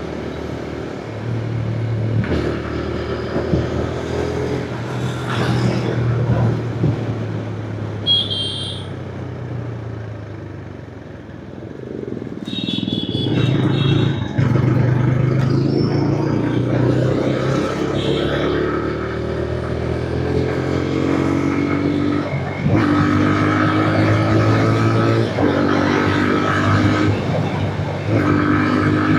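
Motorcycle engine running on the move, its pitch rising and then dropping back in steps as it goes up through the gears. It eases off about ten seconds in, then builds again.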